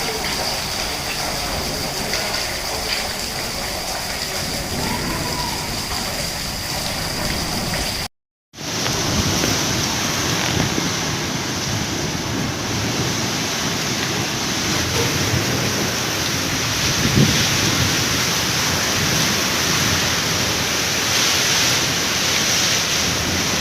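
Steady rain falling, a continuous even hiss. About eight seconds in the sound cuts out for a moment, then the rain continues slightly louder.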